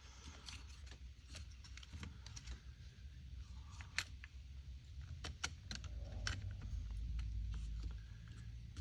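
Small plastic and metal parts of a chainsaw's top handle clicking and rattling as they are handled and fitted together, with scattered irregular clicks and a low rumble for a couple of seconds near the end.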